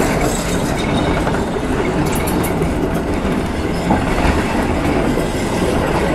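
Heritage railway passenger carriage in motion, heard from an open window: a steady running noise of the wheels on the rails.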